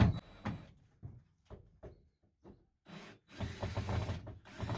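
A few faint, separate taps and clicks, then rubbing and scraping from about three seconds in, as hands and tools work on screwed-in wooden interior panels.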